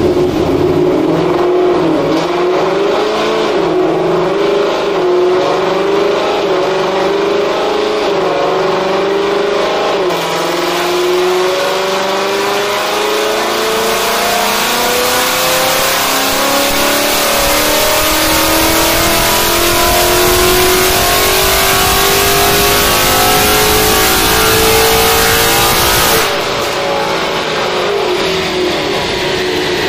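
Ford Coyote 5.0-litre V8 running on a chassis dyno, with its tyres turning the rollers. It holds a wavering part-throttle speed for about ten seconds, then revs climb steadily through a full-throttle dyno pull for about fifteen seconds. The throttle is cut off sharply near the end and the revs fall as it coasts down.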